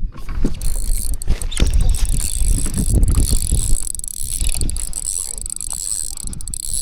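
Spinning fishing reel being cranked steadily, its gears whirring as line is wound in on a hooked bass. Wind rumbles on the microphone underneath.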